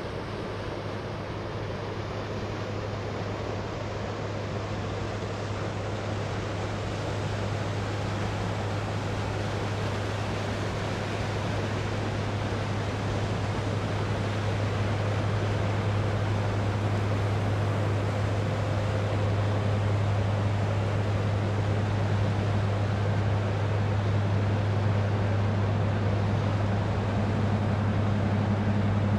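Low, steady drone of a river ship's diesel engine, growing gradually louder as the ship draws nearer, over a constant wash of water and light breeze.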